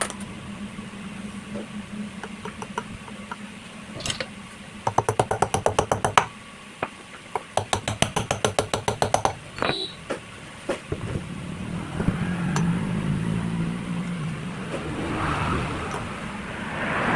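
Two runs of rapid, even metallic clicking, about ten clicks a second, from a ratchet wrench being worked, with a few scattered knocks between them. Later comes a low steady hum.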